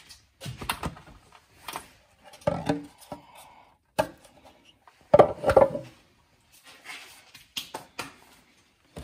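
Plastic air filter housing and filters being handled: a run of irregular knocks, clicks and short rustling scrapes, loudest about five seconds in.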